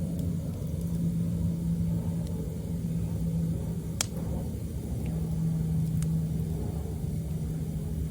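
Wood fire burning in a fire stand, with a few sharp crackles and one loud pop about four seconds in, over a steady low rumble and hum.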